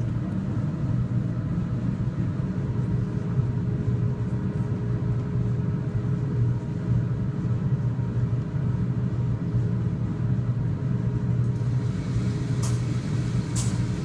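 Steady low mechanical rumble with a constant hum running underneath, unchanging throughout, with a couple of faint sharp clicks near the end.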